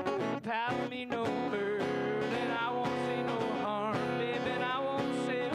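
Live country song: strummed acoustic guitar with a man singing a held, wavering melody line.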